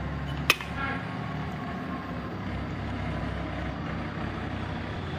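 A single sharp clink with a brief ring about half a second in, over a steady rumbling background noise.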